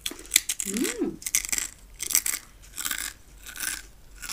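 Crisp deep-fried macaroni pasta fries being bitten and chewed, a quick series of crunches close to the microphone, with a short hum about a second in.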